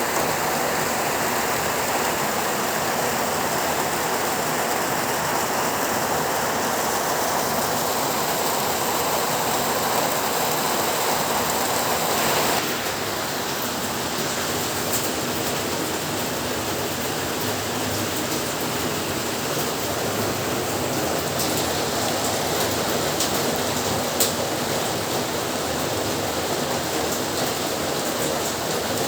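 Heavy rain falling steadily, a dense even hiss. About twelve seconds in the sound changes abruptly to a slightly quieter texture, and a single sharp drip or tap stands out later on.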